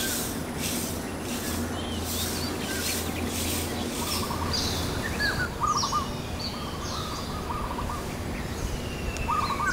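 Outdoor ambience with birds chirping and trilling, their calls coming thick from about four seconds in. In the first few seconds a high hiss pulses about twice a second, over a steady low hum.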